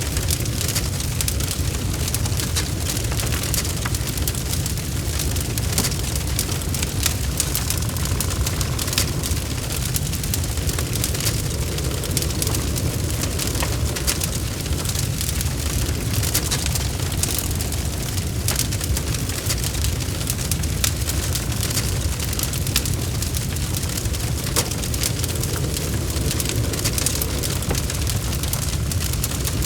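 Log fire in a fireplace crackling, with frequent small pops and snaps over a steady low rumble of the flames.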